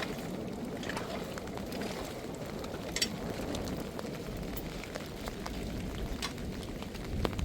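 Steady rain, with a few sharp ticks scattered through it and the sharpest near the end.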